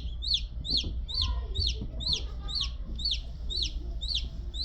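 Newly hatched chick peeping steadily, about three high, quick peeps a second, each rising then falling in pitch.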